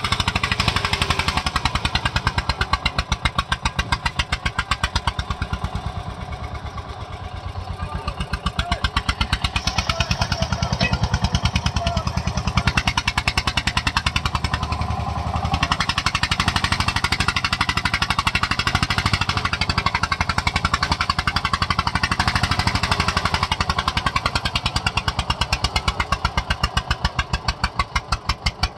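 Eicher tractor's diesel engine running hard under heavy load, a steady rapid beat of exhaust pulses. The beat eases and softens for a couple of seconds about six seconds in, then picks back up.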